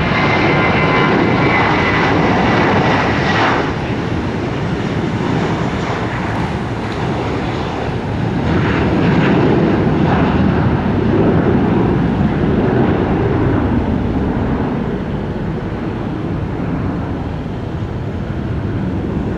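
Airliner engines passing on the runway: a loud, steady rumble that swells twice, with a high whine through the first few seconds.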